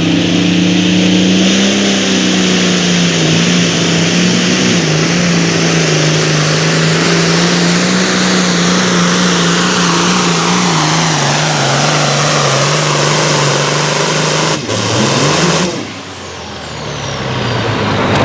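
Engine of a competition pulling tractor or truck running flat out under load during a pull, loud and steady. About fifteen seconds in there is a sharp crack. The throttle then drops off and a high whistle slides down in pitch before the engine picks up again near the end.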